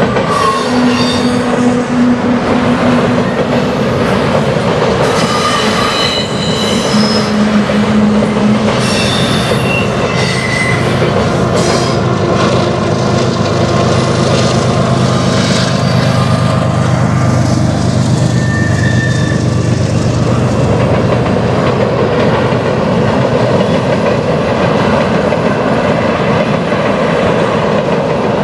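Freight train rolling across a steel truss bridge, with short high-pitched wheel squeals in the first half and a steady rolling clatter. Around the middle, the mid-train GE AC4400CW distributed-power locomotive passes with its 16-cylinder diesel humming steadily, then fades as tank cars roll by.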